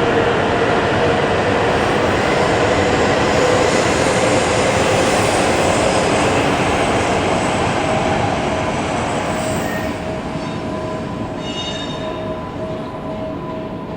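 Shinkansen bullet train running alongside the platform, a loud steady rush of rolling and motor noise with a steady tone underneath, fading over the last several seconds. A brief high-pitched squeal comes near the end.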